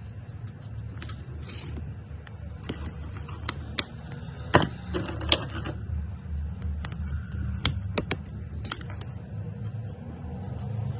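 Irregular plastic clicks and clacks of Touch Twin alcohol markers being handled, caps snapped and markers set down, with a few short scratchy marker strokes on paper, over a low steady hum.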